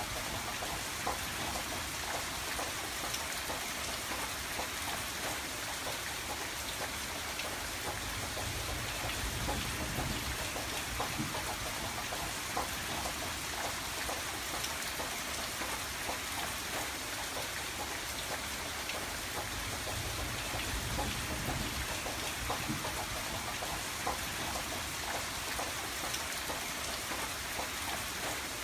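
Steady rain pattering on a window, with scattered sharper drop ticks over an even hiss. A low rumble rises and fades twice.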